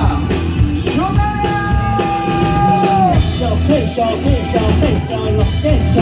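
Live rock band playing an instrumental break over drums and bass. A lead line holds one long note that bends down as it ends, then runs through quick short notes.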